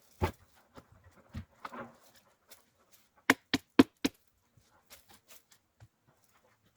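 Split firewood logs knocking together as they are set on a woodpile: a sharp knock near the start, another about a second later, then four quick loud knocks in a row a little past the middle, with lighter clatter between.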